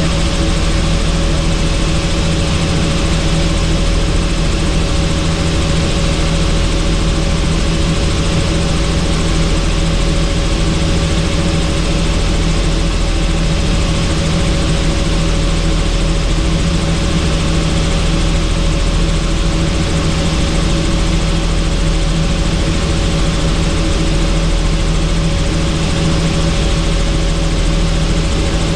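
Helicopter in steady flight heard from on board: an unchanging, loud drone of rotor and engine with a steady rushing of air over it.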